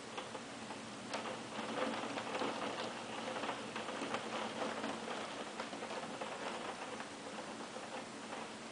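Hailstones of about 1–2 cm pelting down with rain, a dense crackle of sharp ticking impacts over the steady hiss of the downpour. It grows heavier about a second in and eases slightly in the second half.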